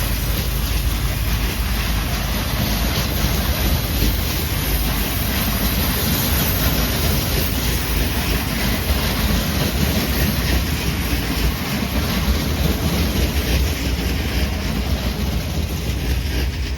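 MÁV M62 diesel locomotive running under power, a loud, steady low engine throb from its two-stroke V12 diesel, with the noise of the train on the rails.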